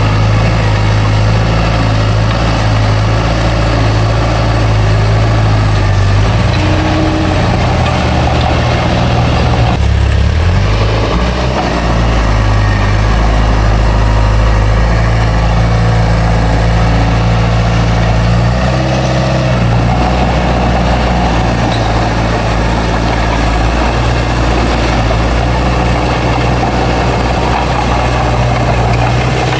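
Heavy diesel engine of a working bulldozer running steadily, its pitch shifting a few times: around a quarter of the way in, briefly about a third of the way in, and again past the middle.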